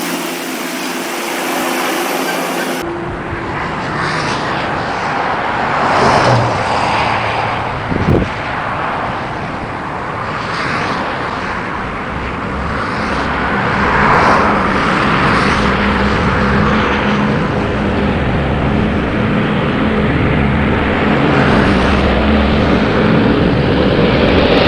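Light aircraft engine running under loud wind and airflow noise, with a sharp knock about eight seconds in.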